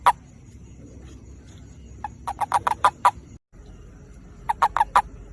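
A toad's mating call: two series of rapid, evenly spaced croaks, about five or six a second, each series lasting about a second.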